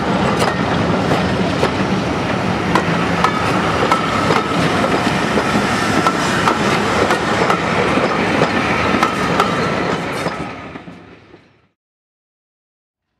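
Railway passenger coaches rolling past close by: the wheels rumble and click over the rail joints, with a thin steady whine above them. The sound fades out to silence near the end.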